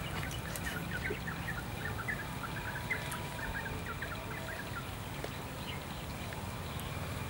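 A bird twittering in a quick run of short chirps for the first three seconds or so, over a steady low outdoor rumble.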